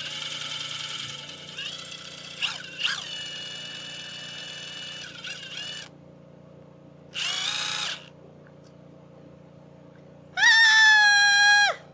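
A cordless drill spinning a pencil-sharpener attachment, sharpening a pencil. It runs in three spells of whining: a long one with a grinding rasp, a short burst, and a louder clean run near the end that winds down in pitch as the trigger is released.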